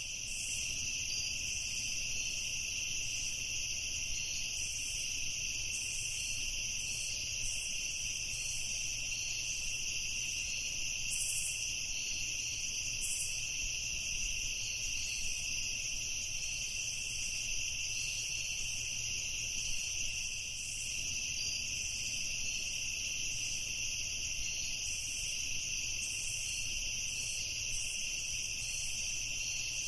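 Night-time chorus of crickets and other insects, a steady, dense high trilling with shorter irregular chirps above it.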